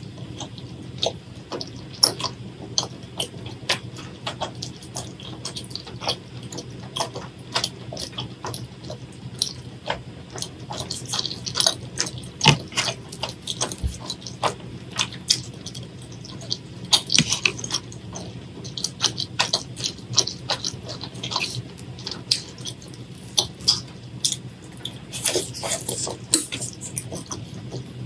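Close-miked wet chewing and mouth smacking while eating chewy tteokbokki rice cakes in thick spicy sauce: many sharp, irregular wet clicks and smacks.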